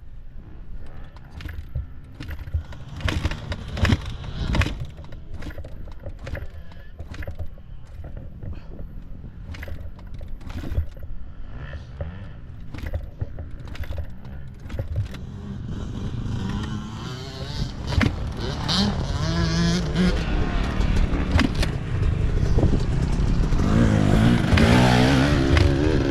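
Dirt bike engine running with a wavering pitch, growing louder through the second half. Before it comes a low rumble with scattered knocks.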